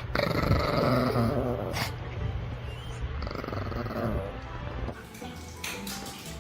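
A dog growling, loudest in the first couple of seconds and dying away about five seconds in.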